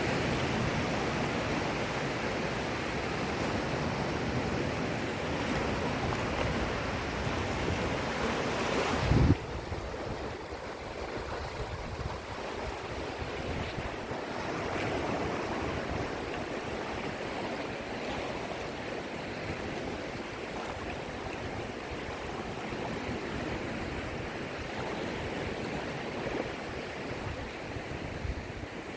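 Sea waves washing on the shore in a steady rush, with some wind on the microphone. About nine seconds in there is a single loud thump, after which the sound is quieter and duller.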